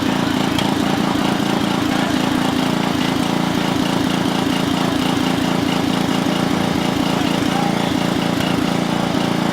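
Tractor engine running steadily at a constant speed, with a fast, even pulsing beat and no change in pitch.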